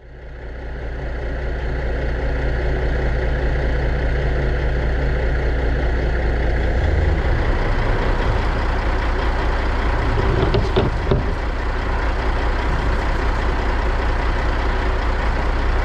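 Heavy engine idling steadily, fading in at the start, with a couple of short knocks about ten to eleven seconds in.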